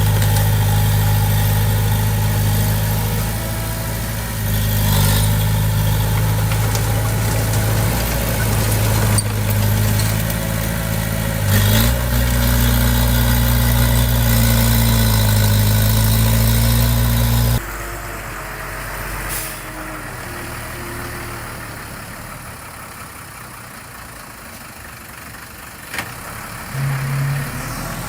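Heavy-equipment diesel engine running steadily under load. Its pitch steps up about twelve seconds in. About two-thirds of the way through it drops suddenly to a fainter engine running.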